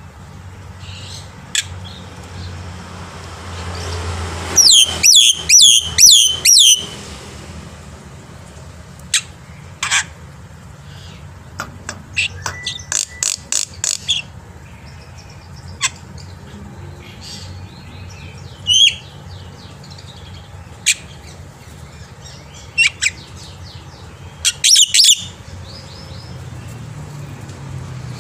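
Black-winged myna (jalak putih) singing. Three loud bursts of rapid, repeated shrill notes last a second or two each, with scattered single calls between them, over a low steady hum.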